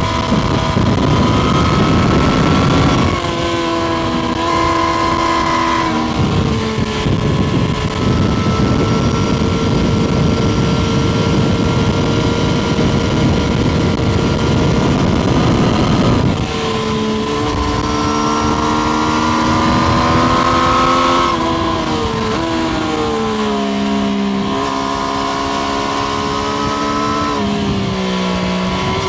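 Triumph Street Triple RS's 765 cc inline three-cylinder engine heard onboard while riding, its note holding steady and then stepping down in pitch several times. A loud rushing noise runs under it, strongest in the first three seconds and from about seven to sixteen seconds in.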